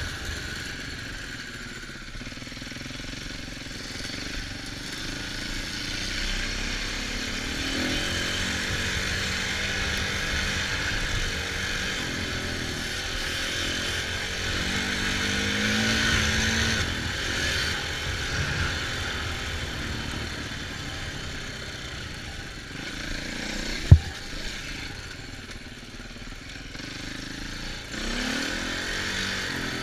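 Off-road engines running under changing throttle while riding, their pitch rising and falling several times over a low rumble. One sharp knock about three-quarters of the way in is the loudest sound.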